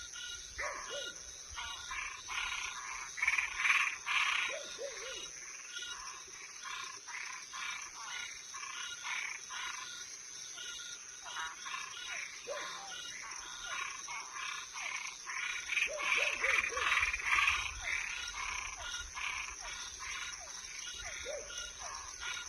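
A chorus of frogs and tree frogs calling, many short calls overlapping in quick succession, denser and louder around the fourth second and again from about sixteen seconds in. A steady high insect drone runs underneath.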